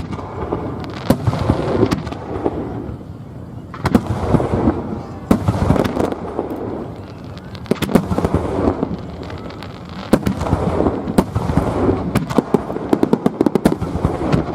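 Aerial fireworks bursting over and over, each sharp bang followed by a low rumbling echo, with a fast run of crackling pops near the end.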